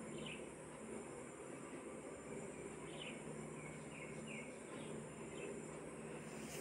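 Faint background room noise with a steady low hum, and a bird chirping faintly now and then: about seven short, high, downward chirps scattered through.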